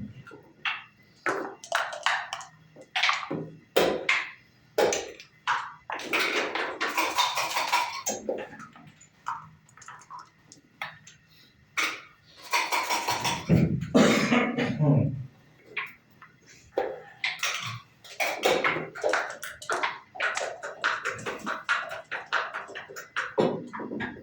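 Backgammon play: checkers clicking and knocking onto a wooden board, with dice rattled in a dice cup and thrown onto the board twice.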